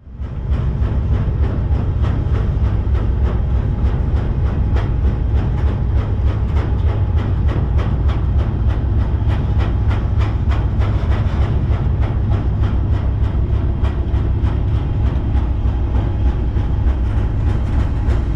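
Freight train rolling, heard from aboard one of its cars: a steady heavy rumble with a regular clatter of wheels over the rails.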